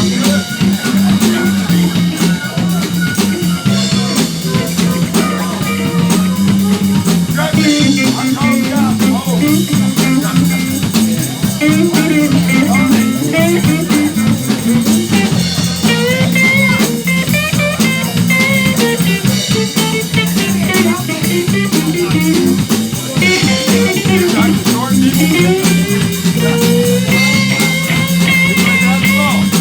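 Live blues band playing: a bending, wavering lead line over a steady bass line and drum kit.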